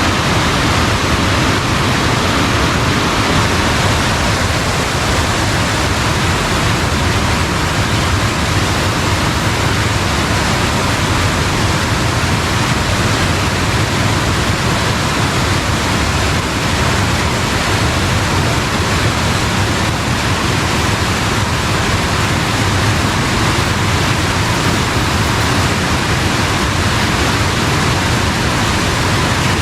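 Strong, fast-flowing stream water rushing over a crossing, a loud even noise with no breaks.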